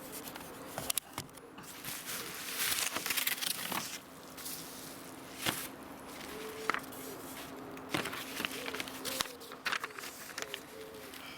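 Paper and plastic packaging rustling and crackling as the parcel is opened and the sticker sheets are pulled out, with sharp clicks and snaps now and then.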